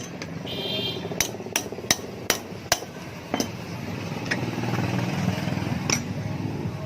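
Hammer striking metal during motorcycle engine work: five sharp blows a little under half a second apart starting about a second in, then a few single, lighter taps.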